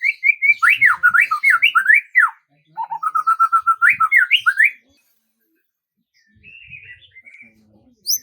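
A songbird singing: two loud phrases of rapid, sweeping whistled notes, the second opening with a quick run of repeated notes, then a short pause and fainter song ending in a single sharp high note.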